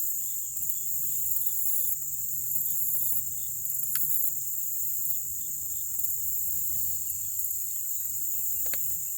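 Outdoor insect chorus: a steady high-pitched trill with a higher pulsing buzz above it. Two faint clicks come about four seconds in and near the end.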